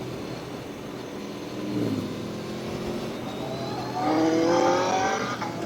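Aprilia Tuono V4 1100 RR's V4 engine under way, briefly changing pitch about two seconds in. About four seconds in it rises in revs as the bike accelerates, loudest there.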